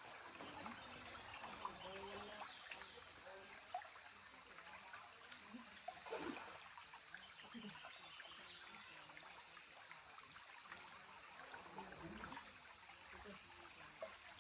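Faint running water of a waterfall stream, trickling steadily.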